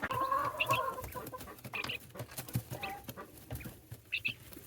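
Chickens clucking, with a drawn-out low cluck in the first second and short high chirps several times.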